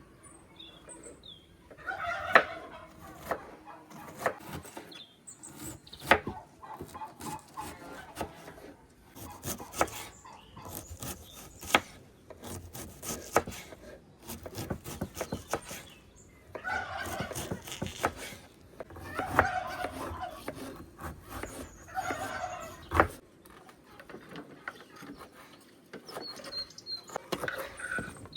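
Farmyard poultry calling, short calls about two seconds in and again several times in the second half, among scattered sharp knocks and clatter.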